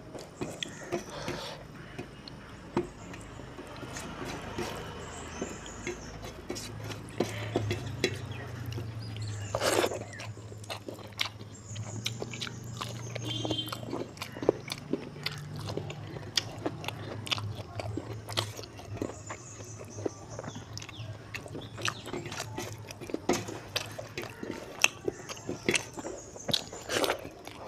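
Close-miked eating: wet chewing and lip smacks as mouthfuls of rice and pork are eaten, with fingers mixing rice on a steel plate. Many short sharp clicks and smacks throughout, over a low steady hum in the middle stretch.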